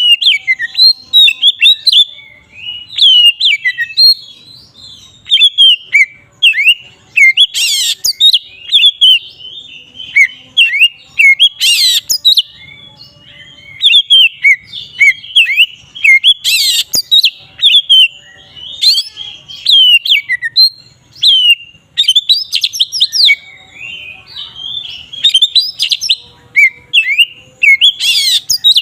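Oriental magpie-robin singing a loud, continuous, varied song of quick whistled and slurred notes, in full open song (ngeplong). A few harsher, noisier notes stand out here and there.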